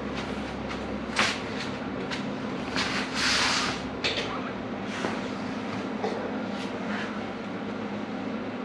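A steady machine hum with scattered sharp clicks and taps, and a short hiss about three seconds in: metalwork noise during a welded repair of a steel race car frame.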